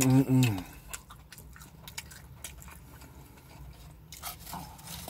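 A man's short hummed voice sound at the start, then chewing and biting a burger, with small wet mouth clicks and the crinkle of its aluminium foil wrapper.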